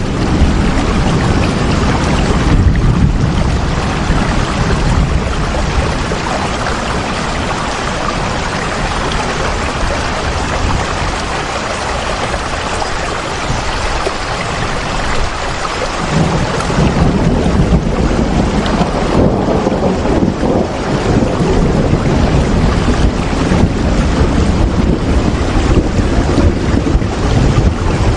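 Steady heavy rain with a deep low rumble underneath, easing a little in the middle and swelling up again about two-thirds of the way through.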